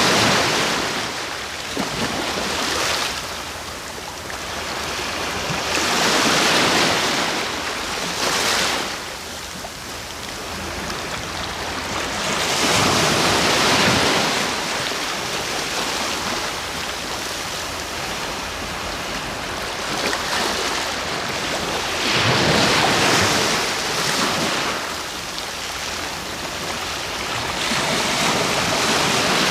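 Sea waves breaking and washing on the shore, each swell of surf noise rising and falling away every few seconds.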